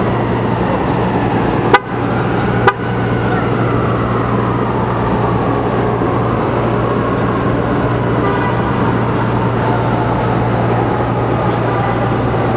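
Steady roar of high-pressure steam venting from a ruptured underground steam main, mixed with city traffic and a wailing tone that slides down in pitch. Two sharp knocks come close together about two seconds in.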